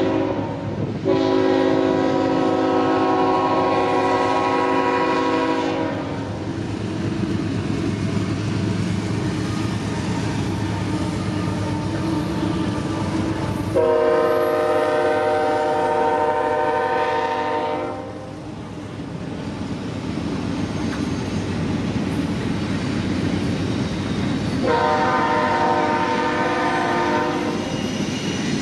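Freight train led by Union Pacific diesel locomotives, the lead unit's air horn sounding three long blasts: from about a second in, about 14 seconds in, and near the end. Under the horn, the locomotives and rolling cars rumble steadily.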